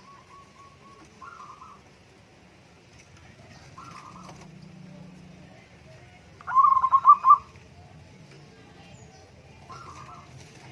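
Zebra dove (perkutut) cooing. Short coos come a few seconds apart, and the loudest is a rapid rolling phrase of several quick pulses about six and a half seconds in.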